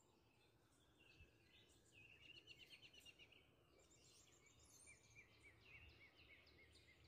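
Faint songbird calls: a fast trill about two seconds in, then a slower run of short repeated notes about five seconds in.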